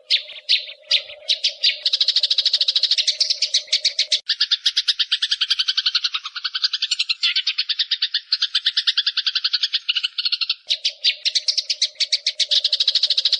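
Eurasian tree sparrows (burung gereja) chattering in a dense, very rapid run of chirps, the agitated calling of birds fighting. A low steady hum sits under the chirps for the first few seconds and comes back near the end.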